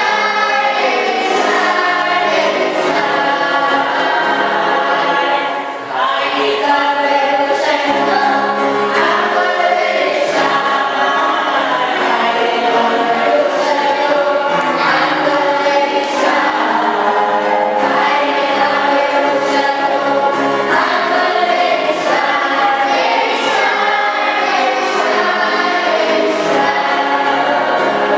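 Church choir singing a gospel hymn in long held phrases, with a short break about six seconds in.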